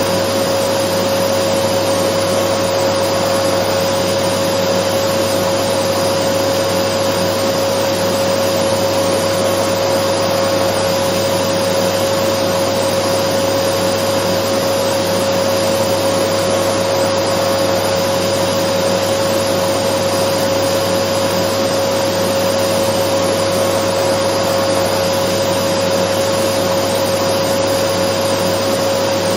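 Dyson vacuum cleaner running continuously: a steady, unchanging motor hum and airflow rush with a constant whine, played as white noise to soothe a baby.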